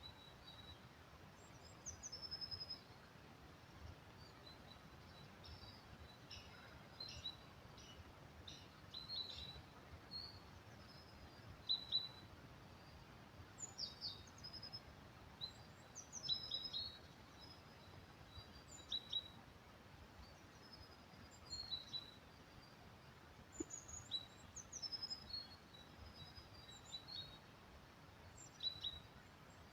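Small forest songbirds calling and chirping in short, high notes scattered throughout, several voices overlapping at times. Underneath is a faint, steady low background rumble.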